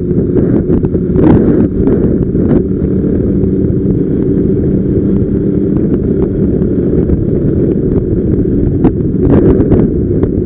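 Motorcycle running at a steady speed, its engine a low hum under heavy wind rumble on the bike-mounted microphone, with a few light knocks.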